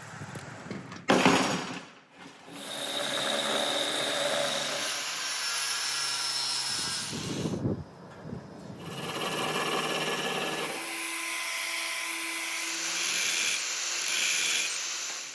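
A power tool running in two long stretches, broken by a short pause about halfway, after a sharp knock about a second in.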